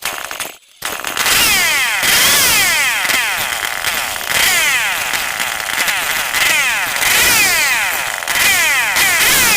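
Stihl 070 two-stroke chainsaw engine bursting into life about a second in and running loudly at high revs, with repeated falling sweeps in pitch.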